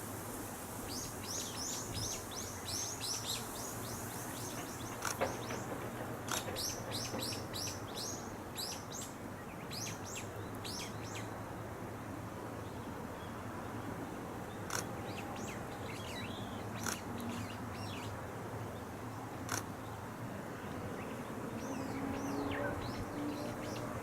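Small birds singing: runs of quick, high, downward-sliding chirps repeated in trills, over a steady outdoor background noise. Near the end a faint low hum slowly rises in pitch.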